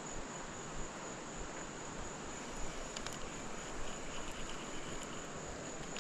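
Steady high-pitched insect chorus shrilling on one unbroken note, over an even background hiss, with a few faint ticks about three seconds in.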